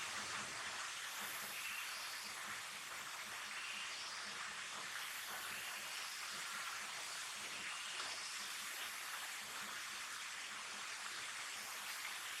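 Steady rain falling in a forest, an even hiss without any break.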